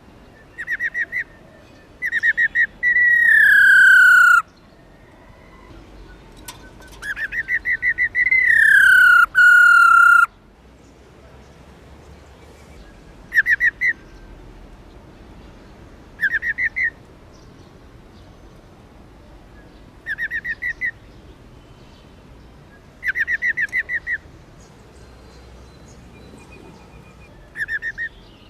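Black-throated laughingthrush, a female, giving short rapid rolling trills again and again, a burst every few seconds. Twice in the first ten seconds a trill runs into a long, loud whistled note that slides downward.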